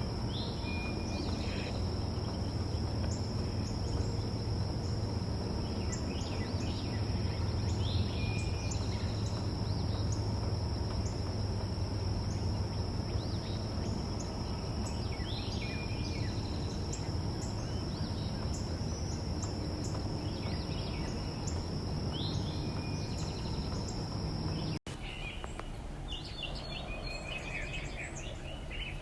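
Backyard songbirds giving short chirps every few seconds over a steady, high insect drone and a low background rumble. About three-quarters of the way through, the drone stops abruptly and the chirping becomes busier.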